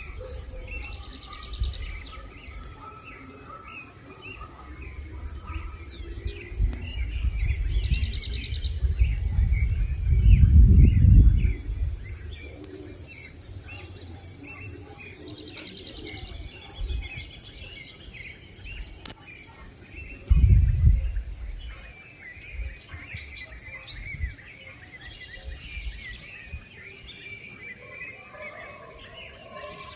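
Several birds chirping and calling: many short, quick chirps and downward-sweeping notes overlapping throughout. A low rumble swells twice, about ten seconds in and again about twenty seconds in, louder than the birds.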